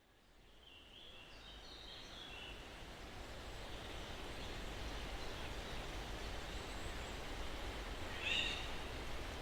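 Soft breeze hissing through pine trees, fading in from silence over the first few seconds, with a few distant bird chirps and one louder bird call about eight seconds in.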